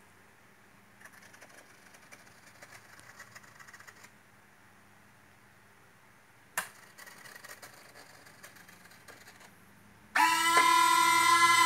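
Faint whirring of the model jet's electric retractable landing gear running, in two stretches with a sharp click between them. Near the end, the twin 80 mm electric ducted fans of a Freewing A-10 model start abruptly into a loud, steady high whine.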